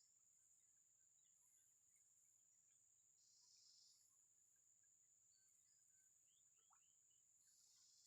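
Near silence: faint outdoor ambience with a thin, steady, high-pitched insect drone, a brief pulse in it about every four seconds, and a few faint chirps about three-quarters of the way through.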